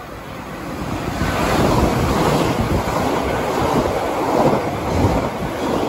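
Elizabeth line Class 345 electric train running along the platform close by: a rumble and rush of wheels and air that grows louder over the first two seconds, then holds steady.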